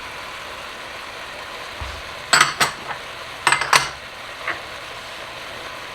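Chicken sizzling in a pot with a steady hiss, broken by two quick clusters of sharp metal clinks of a utensil against the pot, the first about two and a half seconds in and the second about a second later.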